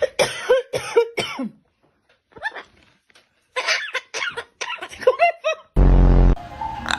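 Pet parrot making rapid, raspy cough-like calls in two runs with a short pause between. A loud, low buzzing blare cuts in about six seconds in.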